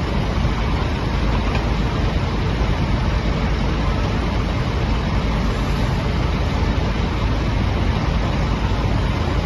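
Loader backhoe's diesel engine running steadily.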